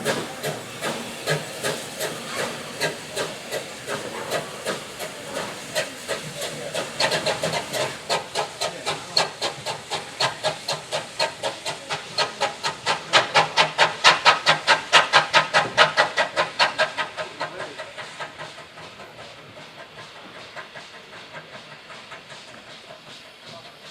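Steam locomotive pulling away with its exhaust chuffing, the beats quickening from a little over one a second to about four a second as it gathers speed. It is loudest about two-thirds of the way through, then fades as it draws away.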